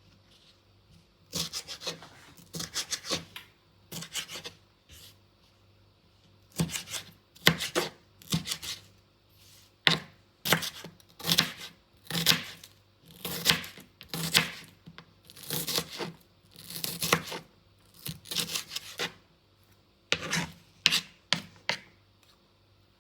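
Hand food preparation in a kitchen: a run of irregular short scraping and cutting strokes, about one or two a second, with short pauses between groups.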